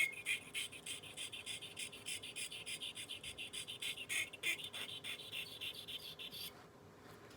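Wet sharpening stone worked up and down against the toe of a Gracey curette blade in quick short strokes: a rapid scraping rasp, about five or six strokes a second, that stops about six and a half seconds in.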